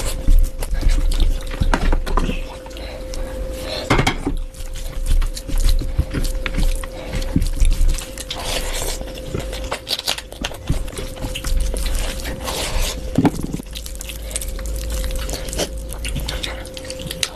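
Close-miked eating: a person chewing and biting food, with irregular wet clicks and crunches, over a steady faint hum.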